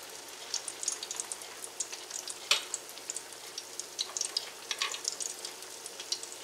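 Salmon patties frying in oil in a cast iron skillet: a steady sizzle with many small pops, and one sharper click about two and a half seconds in.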